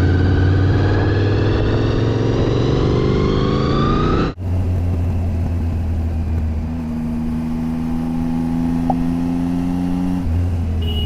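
A motor vehicle's engine accelerating, its pitch rising slowly and steadily, until an abrupt cut about four seconds in. After the cut comes steady engine and road noise, with a steady hum in the middle of the stretch.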